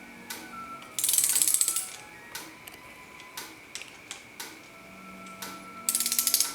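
Ratchet wrench clicking in quick bursts of about a second each, twice, over steady background music with a soft tick about once a second.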